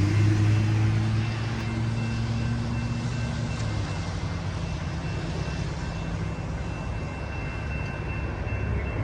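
Metra commuter train passing at speed. A low diesel engine drone is loud at first and fades out about three and a half seconds in. A steady rumble and rush of wheels on rail continues after it.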